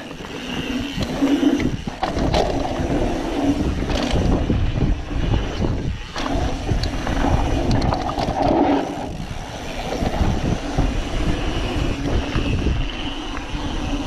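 Mountain bike being ridden along a dirt trail: an uneven rumble from the tyres and the ride, with scattered knocks and jolts over bumps.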